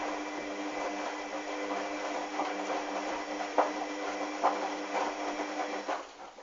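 Hoover washing machine running its wash cycle: a steady motor hum as the drum tumbles a sudsy load of towels, with water swishing and knocks, cutting out near the end as the drum stops.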